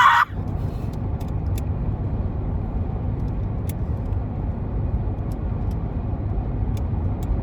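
Steady low rumble of road and engine noise heard inside a car's cabin while it drives at speed.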